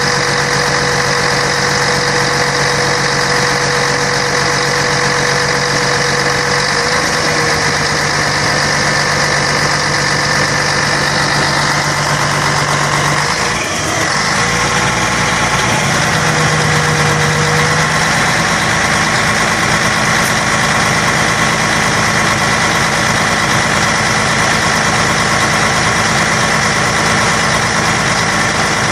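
Scania K113 bus diesel engine running steadily at low revs, with a brief dip and a shift in its tone about halfway through.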